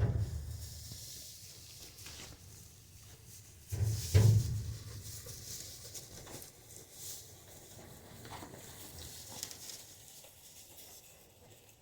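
Baby goats moving about on a barn floor: a dull thump at the start and a quick double thump about four seconds in, with light rustling and small taps between.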